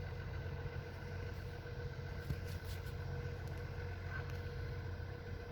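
Excavator's diesel engine idling steadily, a low even hum, while the machine is paused from digging.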